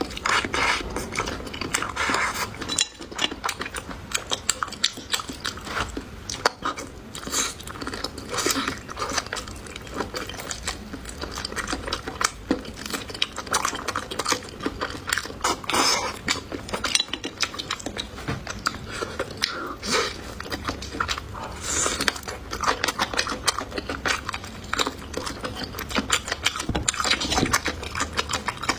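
Close-miked eating: chewing and biting with wet mouth clicks and smacks, and occasional clinks of cutlery or dishes.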